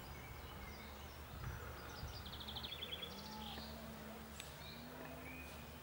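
Faint outdoor ambience with small birds chirping, including a few quick trills about two to three and a half seconds in.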